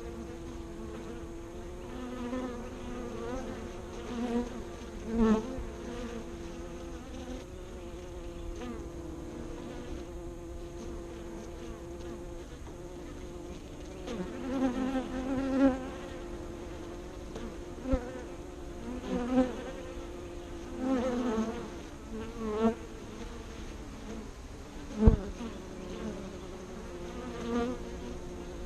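Honeybees flying in and out of a hive entrance: a steady hum of many bees, with single bees buzzing loudly past, their pitch bending up and down as they pass. Two sharp ticks, the louder one near the end.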